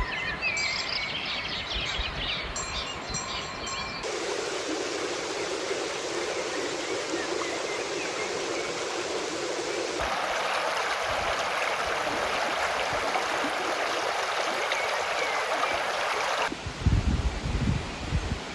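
Steady rush of flowing water, as from a mountain stream, with birds chirping over it for the first few seconds. The water sound changes abruptly about four and ten seconds in, and low thumps come in near the end.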